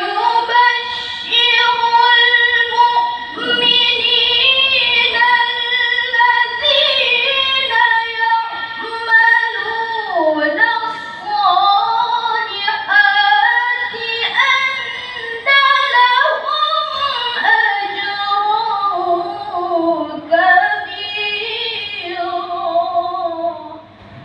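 A girl's voice reciting the Quran in the melodic tilawah style, drawing out long held notes with wavering ornaments and sliding turns. It comes in suddenly at the start and carries on in long phrases with brief dips about ten and twenty seconds in.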